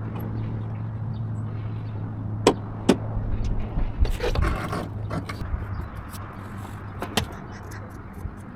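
Semi truck's diesel engine idling with a steady low hum. Over it come sharp clicks about two and a half and three seconds in and again near seven seconds, and a short rustling scrape around four seconds.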